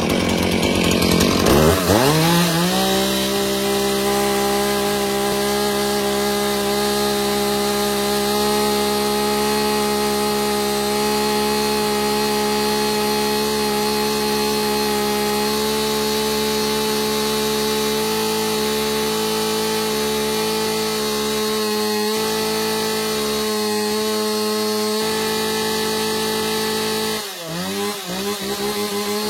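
Two-stroke chainsaw revving up over about two seconds, then held steady at high revs. Its note wavers for several seconds in the second half, and near the end the revs drop off twice and pick up again.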